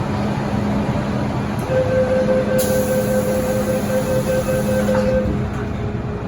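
MTR M-Train, a Metro Cammell DC electric multiple unit, running on the Island Line, heard from inside the car. Under a steady rumble there are steady electrical tones, with a higher tone coming in about two seconds in and dropping out near the end. A high hiss runs through the middle few seconds.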